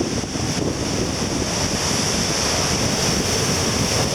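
Heavy surf breaking on the beach in a strong wind, with wind buffeting the microphone in a steady low rumble.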